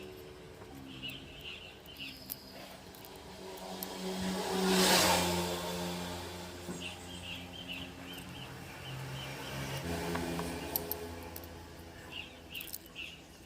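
A motor vehicle engine running steadily, its pitch shifting now and then, with a louder swell of engine and road noise about five seconds in, as of a vehicle passing. Short chirps, as of birds, come through near the start and again in the second half.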